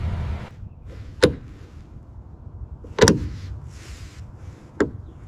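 A steady low rumble that cuts off suddenly about half a second in, then three sharp clicks or knocks spaced about two seconds apart.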